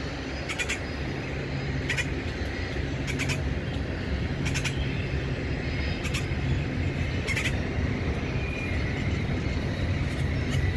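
Steady low rumble of a passing train, noisy and growing a little louder, with trucks humming. Short bird chirps cut through it several times.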